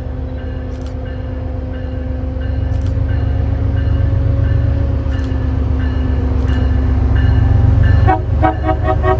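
MBTA commuter rail train approaching, its deep engine rumble and steady drone growing louder, with a faint ping repeating about twice a second. About a second before the end, a louder, rapidly pulsing warning signal sounds.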